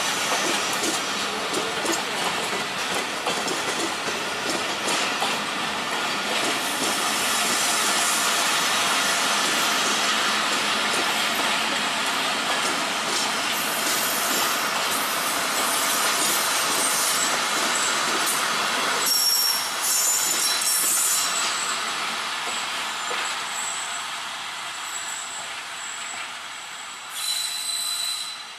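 Passenger coaches of a train rolling past on the track, their wheels running steadily. About two-thirds through, high-pitched wheel squeal breaks in. The sound then fades as the train moves away, with one more brief squeal near the end.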